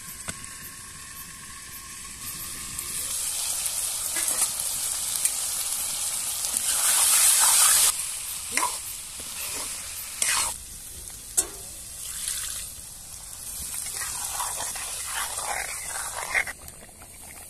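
Chicken and potato curry sizzling in hot oil in an iron kadai, with a spatula scraping and knocking against the pan as it is stirred. The sizzle swells a few seconds in, and the scrapes come as a quick run of strokes near the end.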